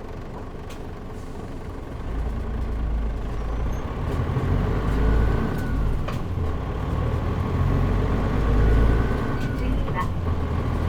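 Running sound of a Mitsubishi Fuso KL-MP37JM city bus's diesel engine and drivetrain heard from inside the cabin. It is quiet at first, then the engine comes under load about two seconds in as the bus pulls away, and the low engine rumble rises and falls as it accelerates.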